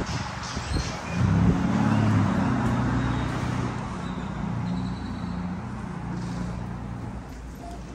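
A car's engine running close by, a low hum that swells about a second in and then slowly fades away.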